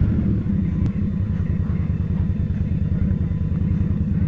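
Indian Scout's V-twin engine running at low revs, with an even low pulsing beat and no rise in pitch.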